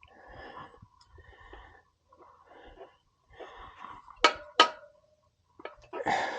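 A man's heavy, effortful breathing in short puffs while he strains on a rim-straightening lever, with two sharp louder bursts about four seconds in.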